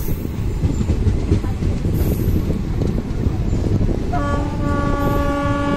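Passenger train pulling out of the station, its running rumble steady, and about four seconds in a train horn sounds one held note.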